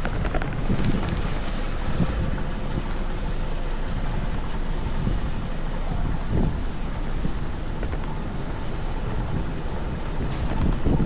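Strong wind buffeting the microphone: a steady low rumble with gusty swells, over general city street noise.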